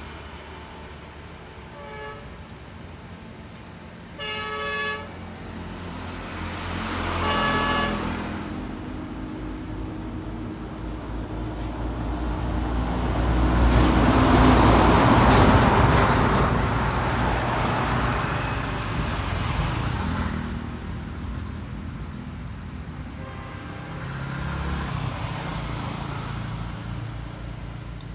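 Road traffic going by, with three short vehicle horn toots in the first eight seconds, the middle one the longest. Midway a vehicle passes close, its noise swelling and then fading.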